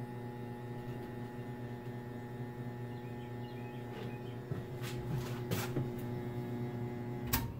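Hampton Bay Minuet II ceiling fan running with a steady electrical buzz that vibrates through the framing it is mounted on. A few sharp clicks come in the second half.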